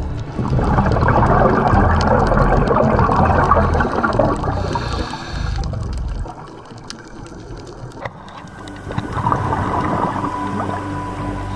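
Scuba diver's exhaled breath bubbling out of the regulator underwater: a long burst of gurgling bubbles, a quieter pause, then a second burst as the next breath is let out.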